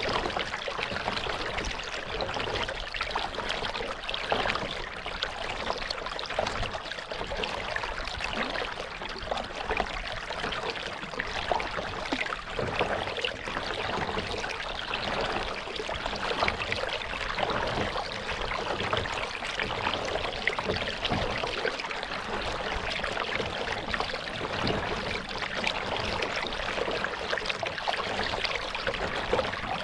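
Lake water trickling and splashing close around a kayak being paddled, with drips and small splashes from the paddle and hull, steady throughout.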